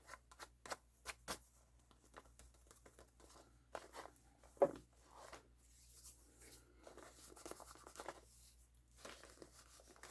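Paper and craft pieces being handled on a desk: a run of light taps and clicks, then rustling and rubbing, with one louder knock about halfway.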